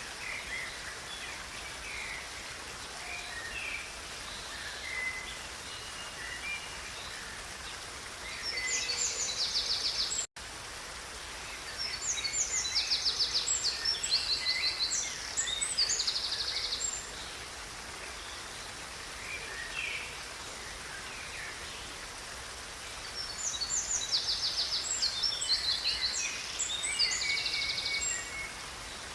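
Songbirds singing over the steady rush of a river: three bouts of high, rapid trilling song, with short chirps scattered between them. The sound cuts out for an instant about ten seconds in.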